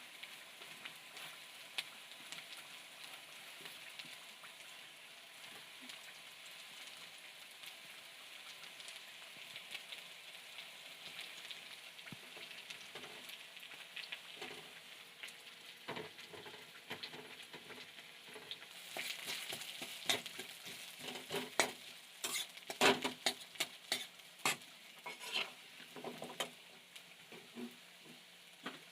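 Food frying and sizzling in oil in a cooking pan. A spoon stirs and scrapes against the pan, giving scattered clicks that grow frequent and louder in the second half.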